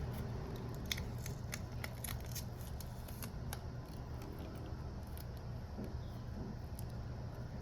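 A quick run of small, sharp clicks and ticks, like repair tools working on a phone's casing, thinning out about halfway through, over a steady low rumble.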